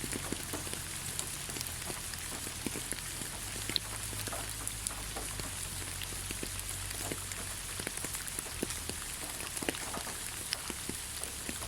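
Steady rain falling on leaves: a constant hiss with many separate drops pattering irregularly.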